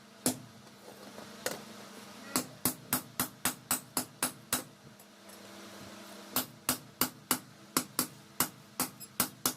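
Hand hammer striking car leaf-spring steel on an anvil, each blow sharp and ringing, in runs of about four blows a second with a pause in the middle.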